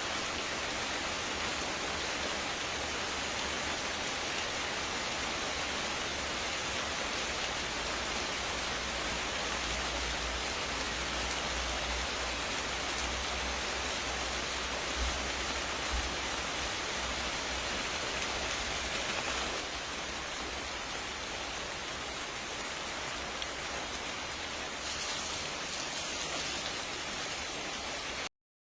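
Steady, even rain-like hiss with a low rumble underneath, which cuts off abruptly near the end.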